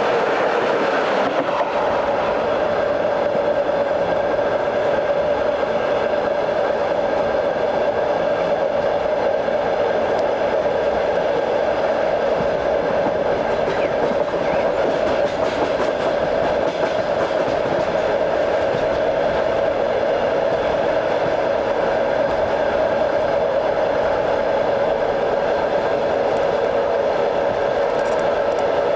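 Train running steadily along the track, heard from aboard: a continuous rumble and wheel noise with a droning hum.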